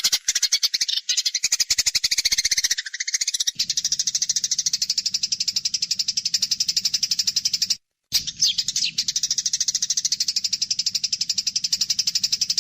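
Eurasian tree sparrows chattering in a fast, unbroken string of short high chirps: the agitated calls of sparrows fighting. There are two very short breaks, about three and eight seconds in.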